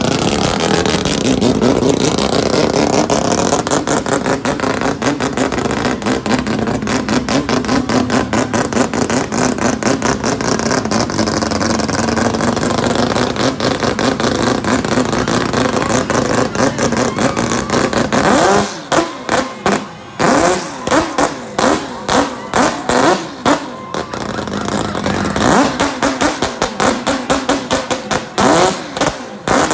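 Nissan Skyline straight-six engines revved hard in a two-step rev battle. A long held rev with a dense crackle runs for about eighteen seconds, then breaks into rapid repeated throttle blips, two or three a second.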